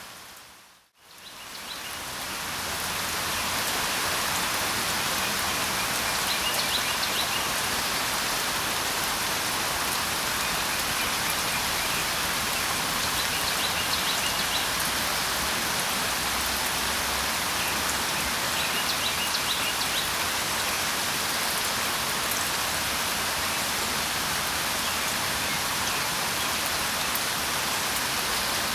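Steady rain falling, with faint short bird chirps every several seconds. About a second in, the sound fades almost to silence and then fades back in.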